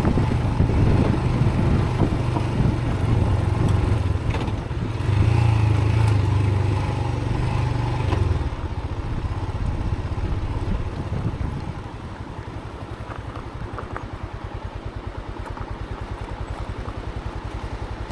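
Motorcycle engine running under load on a rough dirt track. About eight seconds in it drops to low revs, and from there it runs quieter with an even, rapid pulsing.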